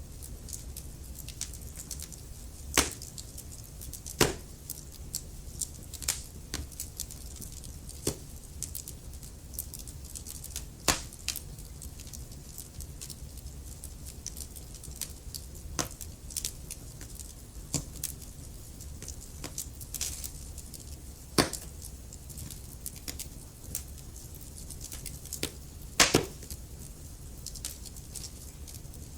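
Wood fire crackling in a fireplace: frequent small snaps and ticks, with a few louder pops, over a low steady rumble of the flames.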